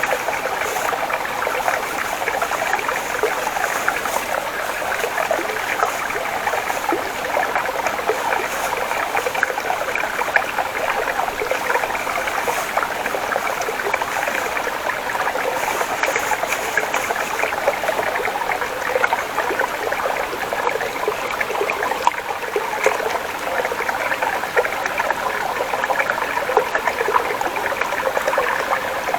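A small stream flowing and babbling steadily over rocks.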